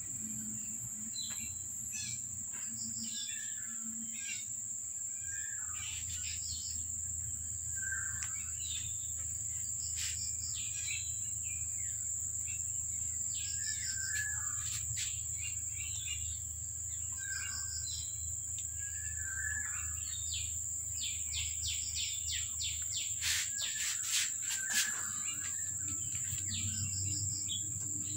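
Birds chirping, short calls repeating every second or two, over a steady high-pitched whine and a low background hum.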